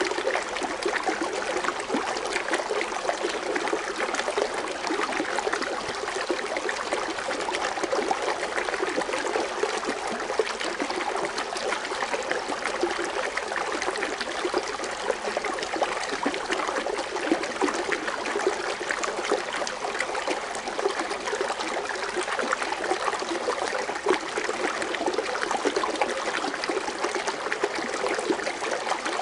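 Water fountain splashing and foaming, a steady unbroken trickling and bubbling.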